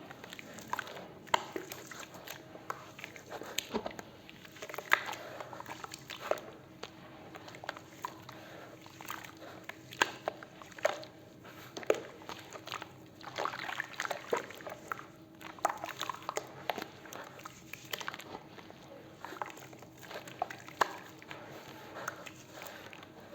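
Cement and concrete being crumbled and mixed by hand into a paste, a dense run of irregular crackling clicks over a faint steady hum.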